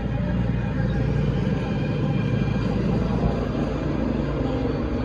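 Small go-kart engines running steadily as several karts circle the track, a constant low drone.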